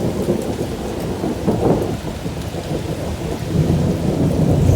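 Heavy storm rain with a low rumble of thunder that swells near the end.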